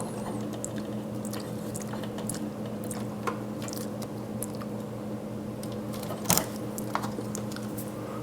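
Scattered small clicks and squishy handling noises as a replacement water pump and its plastic tubing are worked into place by hand inside a SciCan Statim 2000 sterilizer, with a sharper click about six seconds in. A steady low hum runs underneath.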